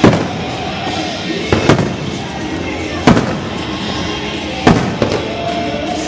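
Aerial fireworks shells bursting with loud booms, one about every second and a half, some followed by smaller crackling bursts, over background music.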